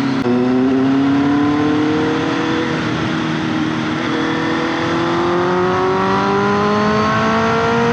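Honda CBR650F's 649cc inline-four engine running through an SC Project aftermarket exhaust under acceleration. The engine note drops just after the start, as with an upshift, then climbs slowly and steadily.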